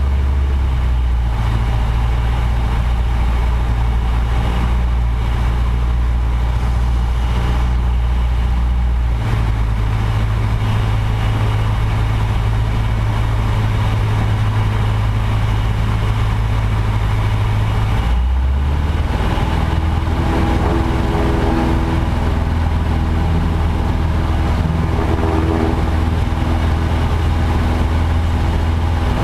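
Light aircraft's piston engine and propeller droning steadily. The pitch steps up about nine seconds in and drops again about eighteen seconds in, as the power is changed during landing practice.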